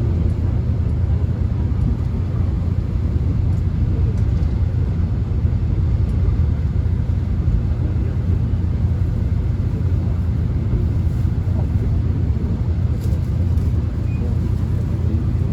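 Steady low rumble of a Korean subway train running, heard from inside the carriage.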